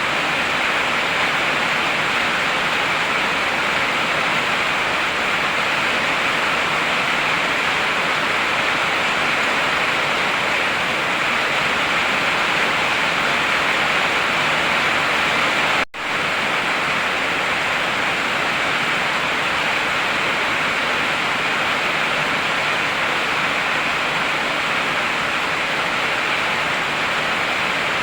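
Heavy rain falling in a steady, dense hiss, with a momentary cut in the sound a little past halfway.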